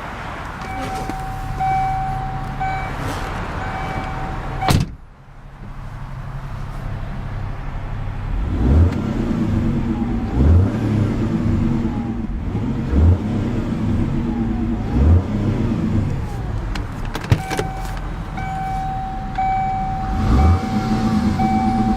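The 2001 Mercury Cougar's 2.5-litre twin-cam V6 runs and is revved in short throttle blips about every two seconds. A warning chime beeps at the start and again near the end, with a sharp click about five seconds in.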